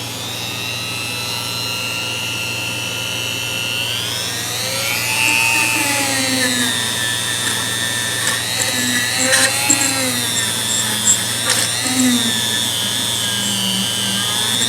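Dremel rotary tool running at high speed on a rusty adjustable wrench, a steady whine whose pitch sags and recovers several times as it is pressed against the metal, with a few short clicks.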